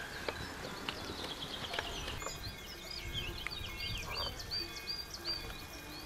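A songbird singing rapid runs of short, high chirping notes from about two seconds in, over a low outdoor rustle with a few light taps early on.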